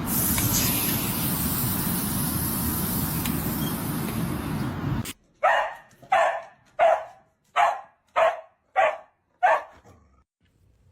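A steady rushing noise that cuts off suddenly, then a dog barking seven times at an even pace, about one and a half barks a second.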